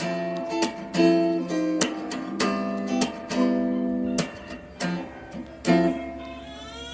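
Background music played on acoustic guitar: strummed and plucked chords with sharp attacks at an easy pace.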